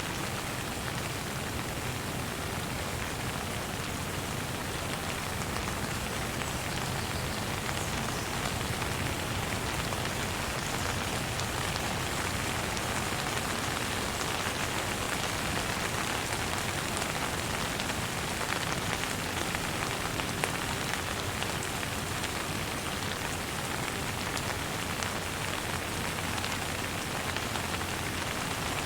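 Steady, gentle rain falling on surfaces, an even hiss with the patter of drops.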